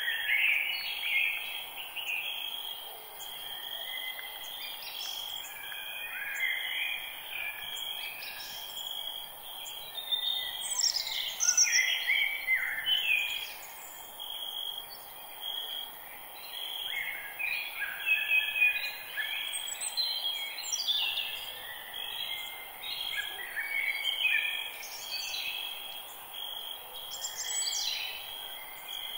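Several birds chirping and singing in short calls and falling trills, over a steady high-pitched insect drone.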